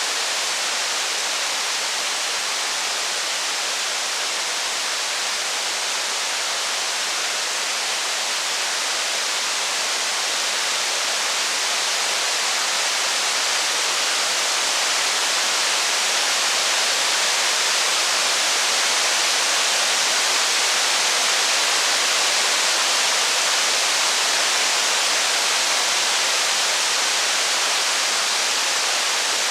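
Steady heavy rain, an even hiss with no separate drops, crackles or thunder standing out, growing slightly louder about halfway through.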